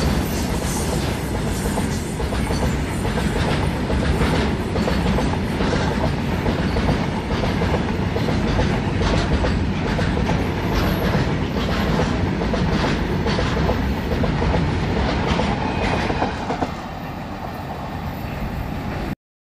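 Empty BOXN open freight wagons rolling past close by, their wheels clacking over the rail joints over a steady rumble. Near the end the last wagon and the brake van go by and the sound drops to a quieter, receding rumble, then cuts off suddenly.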